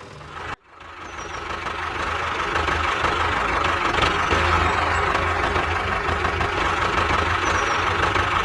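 Steady engine-like running, a low throb with a high steady whine over it, starting after a sudden cut about half a second in.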